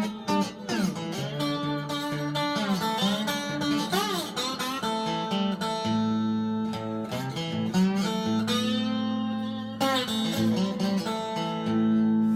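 Three-string homemade guitar with an aluminium-composite top, played with a slide through a small Marshall MG 15-watt practice amp on a clean setting with a little reverb. The notes slide up and down between pitches in the first few seconds, then settle into held notes and chords that ring on.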